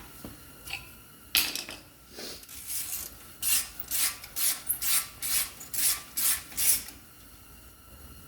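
A sharp snap about a second and a half in as the T30 Torx screw holding the brake rotor breaks loose, then a run of quick, evenly spaced ratchet strokes, two or three a second, as a ratchet wrench turns the screw out.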